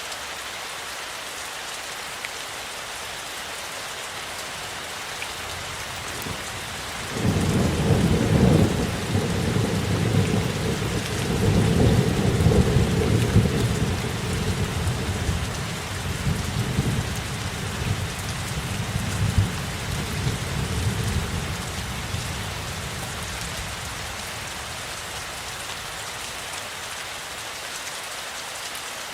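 Steady rain with a long roll of thunder: a deep rumble starts suddenly about a quarter of the way in, swells twice, and dies away over some fifteen seconds, leaving the rain alone.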